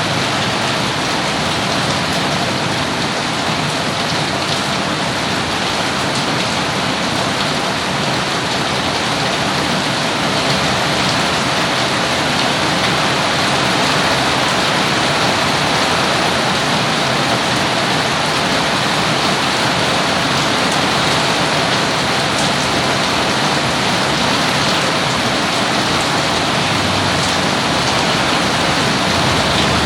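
Steady rain falling and pattering on surfaces, growing slightly louder about ten seconds in.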